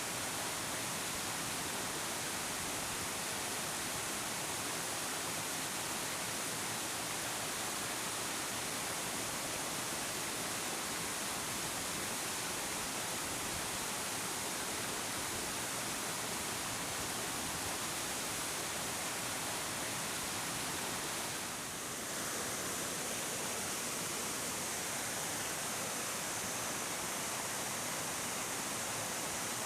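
A large waterfall with abundant flow, about 30 m high, giving a steady, even rush of falling water, with a brief dip in level about 22 seconds in.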